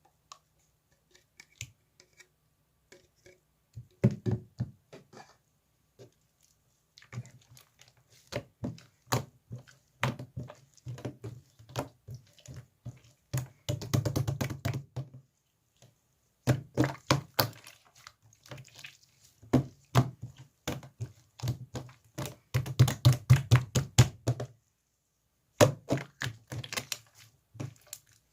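Hands squishing and pressing slime, making rapid sticky clicks and pops in bursts separated by short pauses. The first few seconds hold only a few soft clicks.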